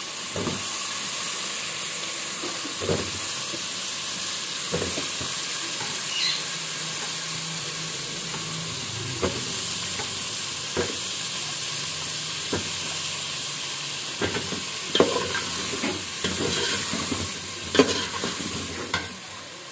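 Onion-and-spice masala sizzling steadily in a metal pot as wet potato chunks are dropped in, each landing with a separate knock every second or two. In the last few seconds a steel spoon stirs the potatoes, with a quick run of knocks and scrapes against the pot.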